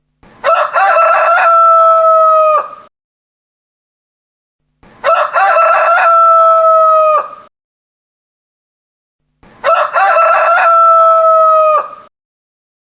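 Rooster crowing three times, evenly spaced about four and a half seconds apart with dead silence between. Each crow lasts about two and a half seconds and ends on a long held note.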